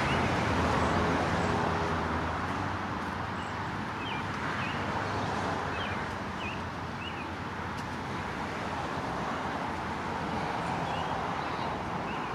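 Steady highway traffic noise, swelling in the first couple of seconds as a vehicle passes, with a few short high chirps scattered through.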